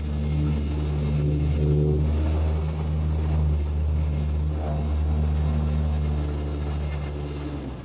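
Steady low motor hum that cuts off suddenly near the end.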